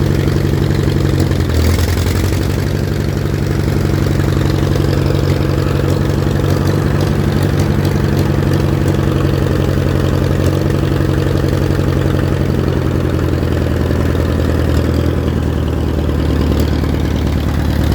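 Allis-Chalmers farm tractor engine idling steadily soon after a cold start on a little choke, with a brief dip in engine speed about two seconds in.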